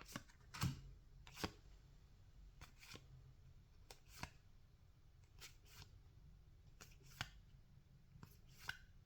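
Trading cards being flipped through by hand: about a dozen faint, short flicks and slides of card stock at irregular intervals.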